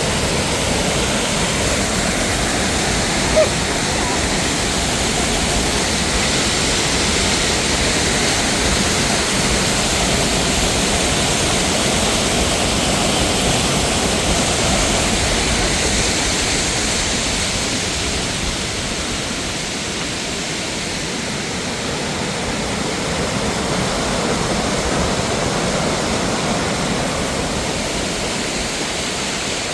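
Rushing water of a waterfall: a loud, steady, even rush, with one brief click a few seconds in.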